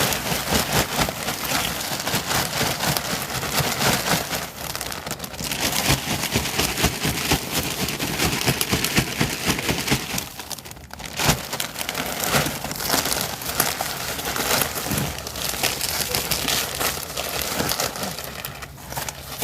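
Pine bark mulch being poured and worked by hand in a plastic storage tote: a continuous dense crackling rustle, with a brief lull about halfway through.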